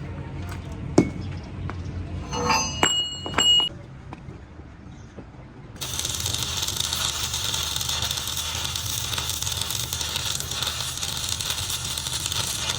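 Several sharp metal clinks and knocks of tools, a few of them ringing briefly, then a loud steady hiss of compressed air that starts suddenly about six seconds in and cuts off at the end, as during work on a truck tyre and its inner tube.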